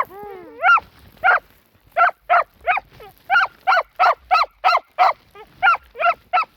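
A dog barking rapidly and repeatedly, about three short high barks a second, with a bending whine at the start. The dog is excited at a cat hidden in the hay.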